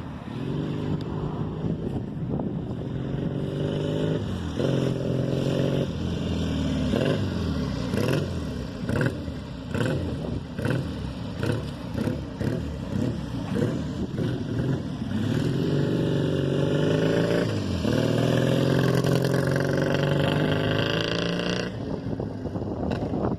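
1957 Matchless G9 500cc parallel-twin motorcycle engine running and being revved by hand: held revs near the start, then a run of quick throttle blips, then longer revs that drop back to idle near the end.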